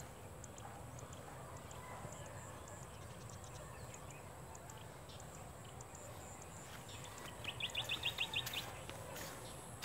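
Faint, steady open-air background noise. About three-quarters of the way in, a bird gives a quick run of about eight high chirps lasting around a second.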